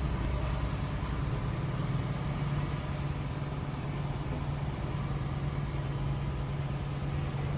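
Semi truck's diesel engine running steadily at low speed, a constant low hum.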